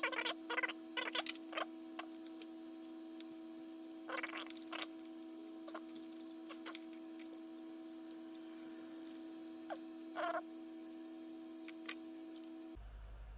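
Scattered clicks and rustles of an electric motorcycle's wiring harness and its plastic connectors being handled and pulled free, over a steady background hum. The hum stops abruptly near the end.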